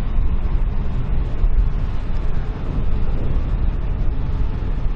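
SNCB electric passenger train of double-deck coaches rolling past at low speed, a steady low rumble.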